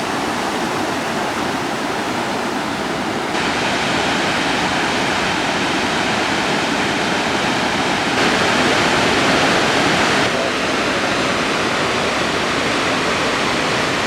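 Waterfall with a steady, loud rush of falling water. The sound steps abruptly brighter and louder about three seconds in, again at about eight seconds, and drops back a little around ten seconds.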